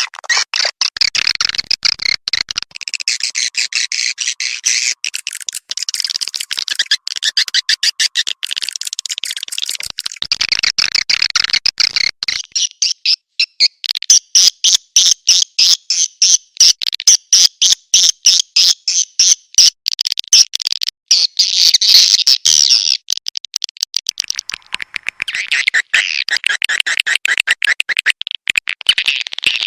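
Swiftlet lure-call recording: a flock of swiftlets chattering in dense, rapid trains of high, buzzy chirps. About halfway through comes a louder run of fast, evenly spaced pulses.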